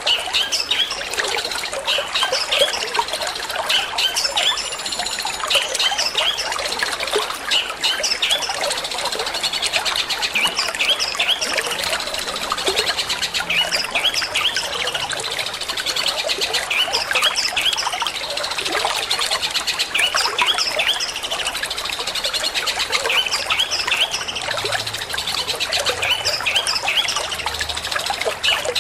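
Long-tailed shrike (cendet) singing a fast 'petir'-style song, a dense run of short, sharp chirps, over steadily trickling water.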